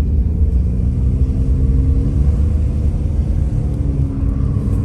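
Car being driven, heard from inside the cabin: a steady low engine and road rumble with a faint hum.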